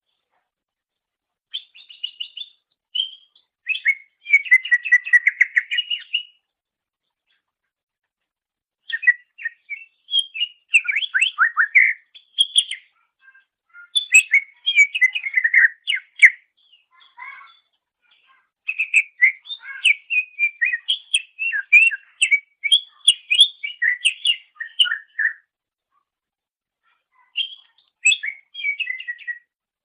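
Cucak ijo (leafbird) singing: phrases of rapid, varied chirps and whistles, separated by pauses of two to three seconds.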